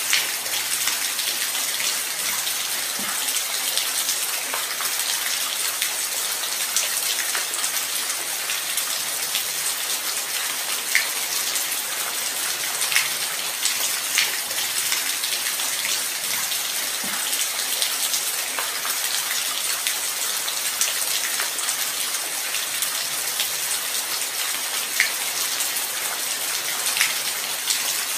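Light rain falling steadily as an even hiss, with scattered louder individual drops ticking on a surface.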